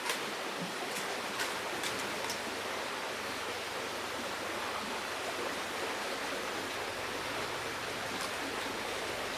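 Steady rush of flowing river water, with a few faint ticks in the first few seconds and one near the end.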